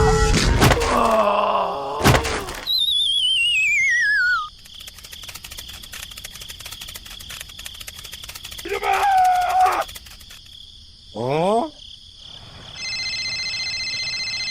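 A string of added sound effects: voice-like sounds at the start, then a falling, warbling whistle, rapid fine ticking, a quick rising glide, and steady electronic beeps near the end.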